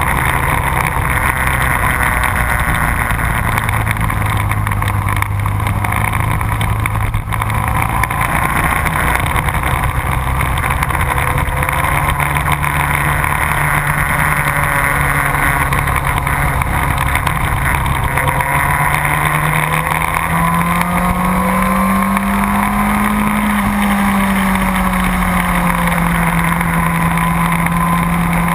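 Motorcycle engine running steadily, its note climbing slowly, stepping up about two-thirds of the way in, then easing off a little.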